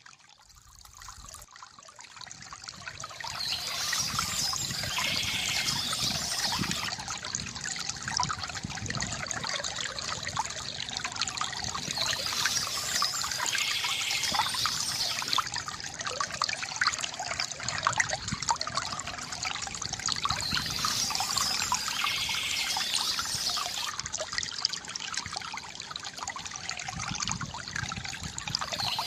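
Water trickling and splashing from a bamboo fountain, a steady gurgling flow. It fades in from near quiet over the first few seconds.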